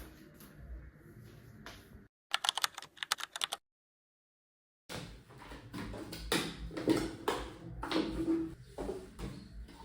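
Rapid clicks and clattering knocks of things being handled, in short cut-together clips with a second of dead silence in the middle; the knocks are loudest in the second half.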